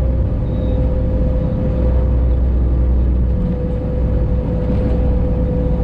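Freightliner Classic XL semi truck's diesel engine running while driving, a steady low drone heard from inside the cab, with a thin steady whine above it.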